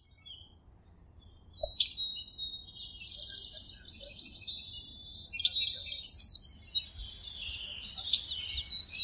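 Several songbirds chirping and singing in high, overlapping trills, sparse at first and then thick from about two seconds in, with quick downward-sweeping notes near the middle and near the end.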